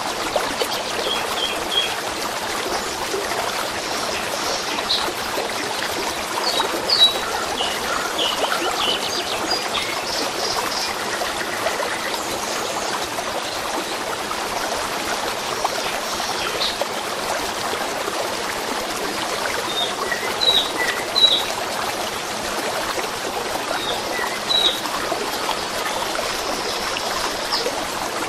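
A stream trickling steadily, with short bird chirps scattered over it, a few of them standing out about 7 and 21 seconds in.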